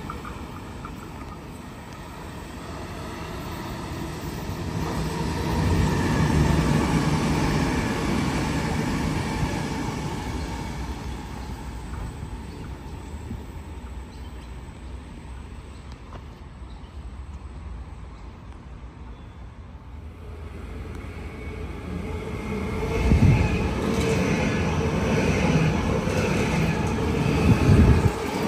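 Electric suburban train passing through the station: its running noise swells over the first few seconds and fades away. Near the end a second train comes in louder, with two sharp thuds.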